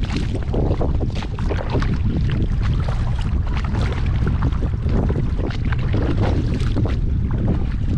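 Wind buffeting the microphone in a steady low rumble, over irregular splashing and lapping of lake water around a kayak being paddled.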